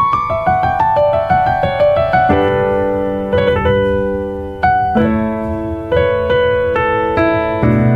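Background piano music: a melody of struck notes, each ringing and fading, over sustained chords.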